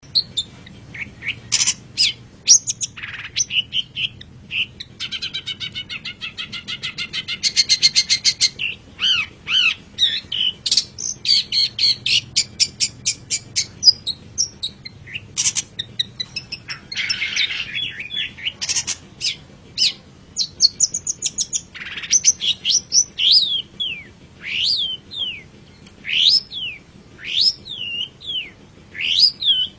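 Long-tailed shrike (cendet) singing a varied, rambling song of scattered chirps. About five seconds in comes a fast run of repeated notes, near the middle a harsh rasping note, and through the second half a series of sharp down-slurred whistles.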